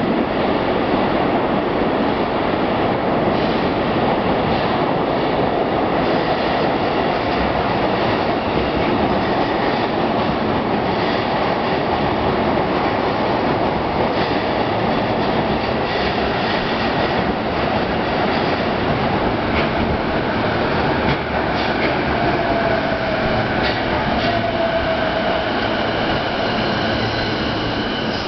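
JR East E233-5000 series electric train arriving along an underground platform, its running and braking noise steady and loud. A falling whine sounds about three-quarters of the way through as it slows to a stop.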